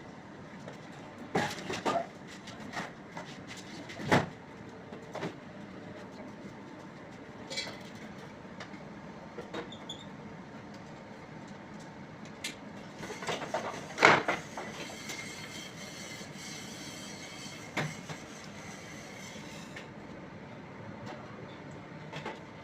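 Irregular knocks and clatters of hand work on a fan coil unit, parts and tools being handled, the loudest about 4 and 14 seconds in. A faint hiss runs from about 13 to 20 seconds in.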